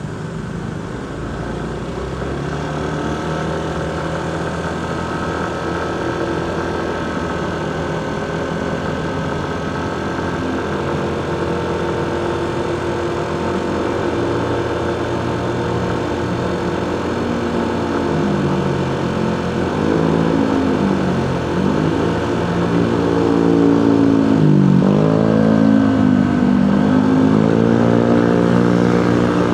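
Motorcycle engine running under way, steady at first and then, in the second half, repeatedly rising in pitch and dropping as it accelerates through gear changes, getting louder toward the end.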